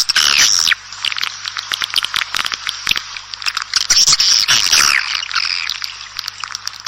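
Swiftlet lure call: a dense chorus of swiftlets twittering, many overlapping rapid clicks and short falling chirps with no pause.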